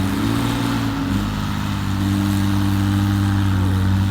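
Kobelco SK120 Mark V Super hydraulic excavator's diesel engine running steadily; its note shifts about a second in, then holds.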